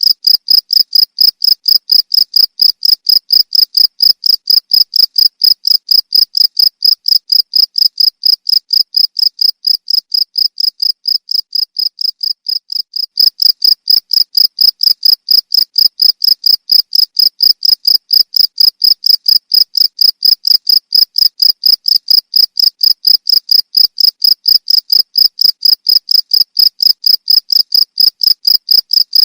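Cricket chirping in a steady, high-pitched rhythm of about four chirps a second. It grows a little quieter about ten seconds in, then returns to full strength abruptly a few seconds later.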